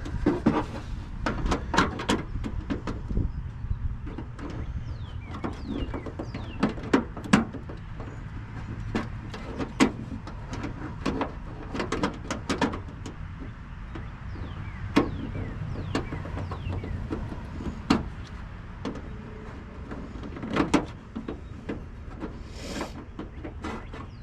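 Brittle hard-plastic fasteners of a car's running light housing cracking and snapping as they are worked loose by hand: a string of irregular sharp clicks and snaps, with a steady low hum underneath.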